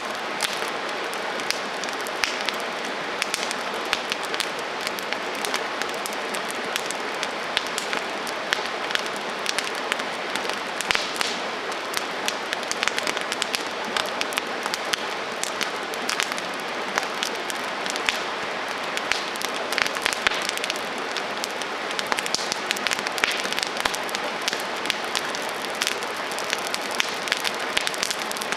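Wood campfire crackling: a steady hiss with frequent irregular sharp pops and snaps.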